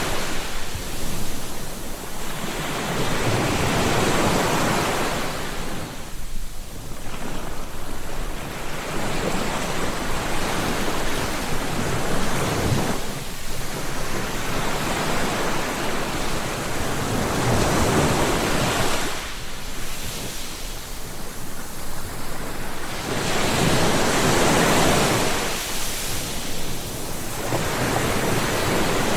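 Ocean waves breaking and washing on the shore, the surf swelling and ebbing every few seconds, with some wind on the microphone.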